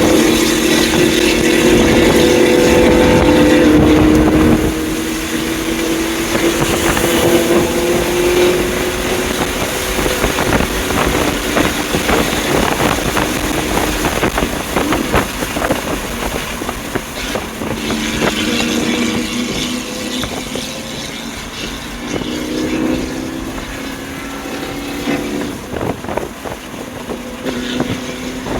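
A 2020 BMW M2 Competition's twin-turbo straight-six accelerating hard with its pitch climbing, then cut off suddenly about four seconds in. A long stretch of road and wind noise with rapid crackling follows, and the engine climbs in pitch again in several short pulls near the end.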